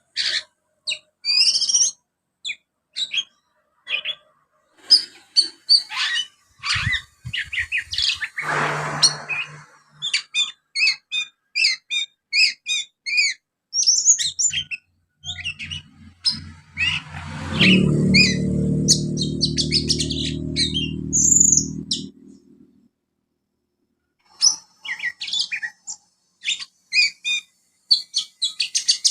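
Young oriental magpie-robin singing rapid, chattering chirps and trills that mimic Eurasian tree sparrow calls. In the middle a low droning hum comes in for several seconds, louder than the bird, then stops.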